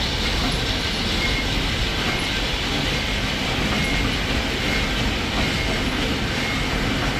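Steady, even noise of workshop machinery running.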